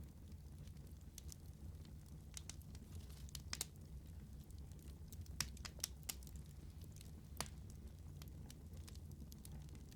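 Wood fire crackling: a low steady rumble of the flames with irregular sharp pops and snaps, a few louder ones in the middle.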